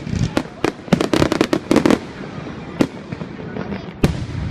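Fireworks display: a rapid string of sharp bangs and crackles, thickest around the first two seconds, then thinning out, with a single loud bang near the end.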